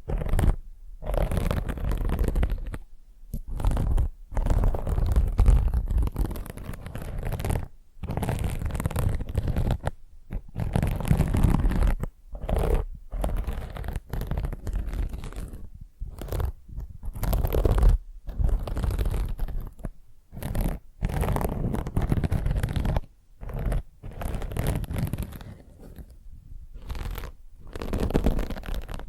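Fingernails scratching a scouring pad close to the microphone, in repeated rough strokes of about a second with short pauses between them.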